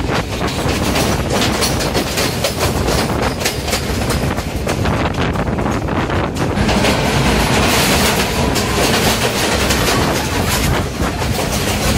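Passenger train coaches running along the track, heard from an open carriage window: steady rolling noise with rapid clicking of wheels over the rails, turning brighter and hissier a little past halfway.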